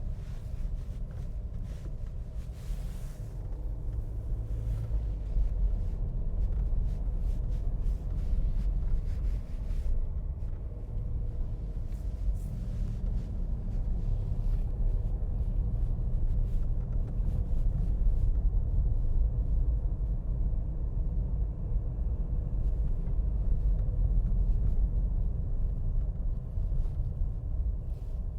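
Steady low rumble with no speech, growing slightly louder about five seconds in.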